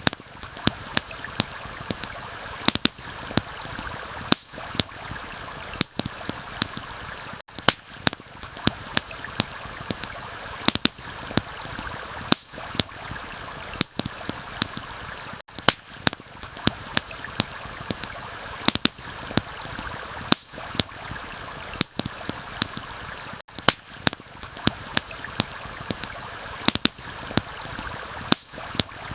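Campfire crackling and popping in irregular sharp snaps over the steady rush of a stream.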